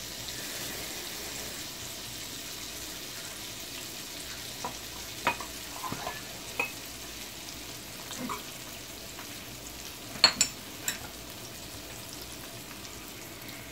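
Flour-coated chicken wings frying in a pan of hot oil: a steady sizzle with occasional sharp pops and crackles, the loudest about ten seconds in.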